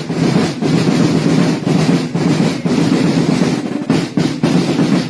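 Several snare-type parade drums playing a continuous loud roll with regular accents, which stops right at the end.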